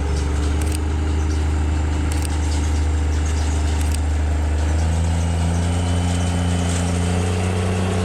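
Locomotive engine running steadily with a low, even drone; its hum shifts pitch about five seconds in.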